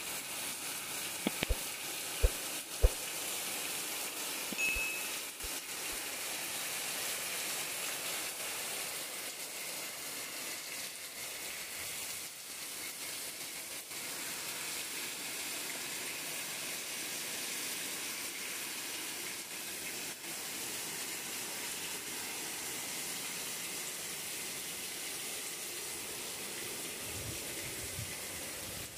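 Heavy rain pouring down, a steady even hiss, with a few sharp taps in the first three seconds.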